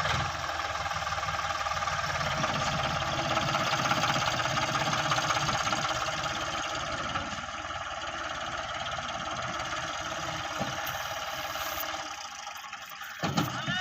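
Tractor diesel engine running with a steady, fast pulsing beat, easing off about twelve seconds in. Near the end come a couple of sharp knocks.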